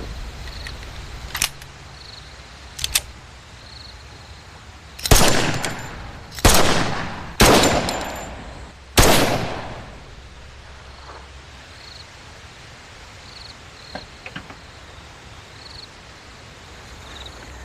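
Four gunshots about a second apart, each followed by a long echoing tail, preceded by a few lighter clicks.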